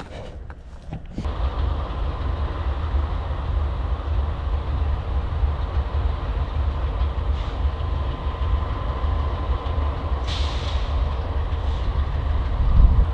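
Diesel freight train running close by: a heavy, steady low rumble with a steady whine above it, starting abruptly about a second in. A short hiss near the end.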